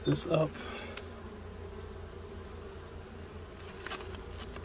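Honeybees buzzing in a steady hum around an open hive, with a brief louder knock in the first half-second and a few faint clicks near the end.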